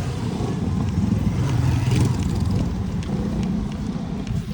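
Wind buffeting the microphone with road rumble while riding a bicycle, a steady loud low rumble that swells and dips.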